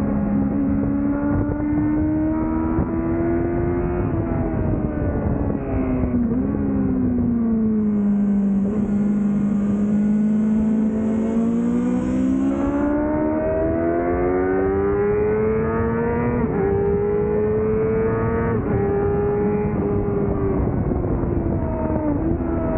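2005 Yamaha YZF-R6's inline-four engine with an aftermarket Laser exhaust, heard onboard at track speed. The revs climb under acceleration and drop sharply at gear changes, and they sag low and steady for a few seconds in the middle before climbing again.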